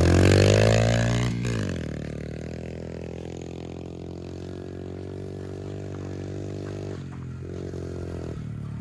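Pit bike engine revving hard at the launch, its pitch climbing for about a second and a half before dropping sharply. It then runs on fainter and fairly steady as the bike pulls away.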